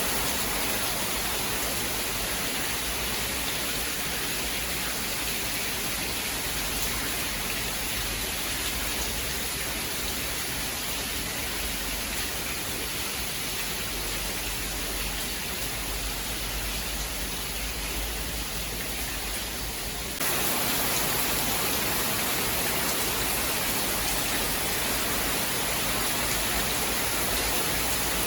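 Steady hiss of heavy rain, with no thunder. About two-thirds of the way through, the hiss jumps suddenly louder and brighter.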